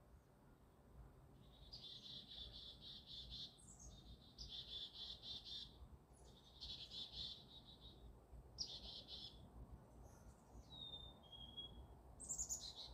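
Songbirds singing: four trilled phrases a second or so long each, followed by a thin whistle sliding down in pitch and a high note falling steeply near the end, over a faint low rumble.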